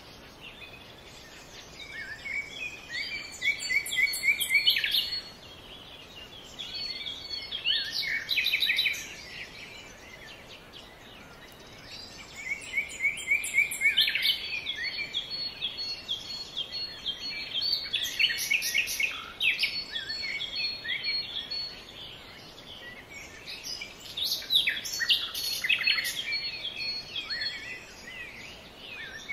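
Small birds chirping and calling in busy bouts of a few seconds, with quieter spells of faint background noise between them.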